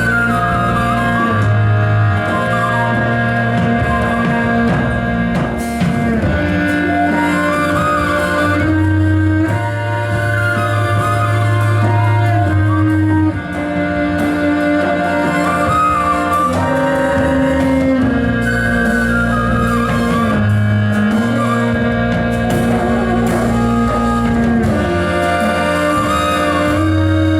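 Live band music from a kaval, accordion, double bass, drums and percussion ensemble: a melodic phrase that winds downward and returns every few seconds over long, sustained bass notes.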